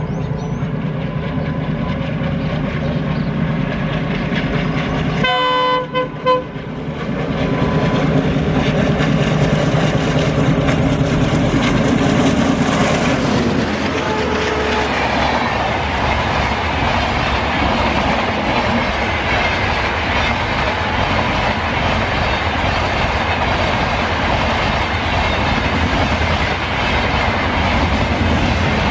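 Diesel-hauled passenger train: the locomotive engine drones, the horn sounds briefly about five seconds in, then the train passes with a loud steady rush of wheels clattering on the rails.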